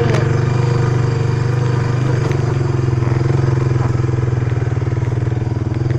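Small off-road vehicle engine running at a steady speed while riding, one loud continuous drone that barely changes pitch.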